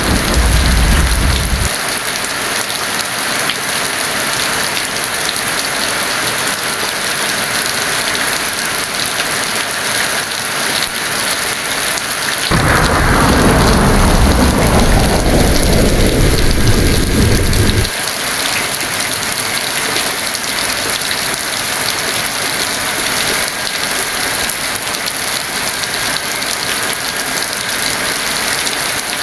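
Heavy rain falling steadily. About halfway through, a roll of thunder starts suddenly, its rumble sinking lower over about five seconds before it cuts off abruptly. The tail of an earlier thunder roll also breaks off in the first two seconds.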